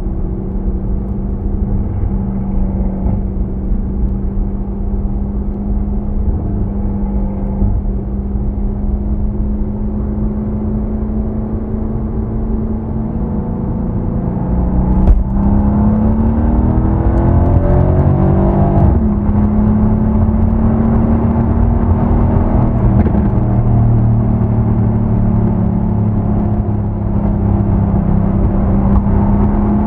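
Mercedes-AMG C63 S (W205) twin-turbo 4.0-litre V8 on its stock exhaust, droning at low, steady revs. About halfway through it pulls harder, and the pitch climbs for a few seconds. The pitch drops at a gearshift, then settles into a slightly higher steady drone. A single sharp click comes just as it starts to accelerate.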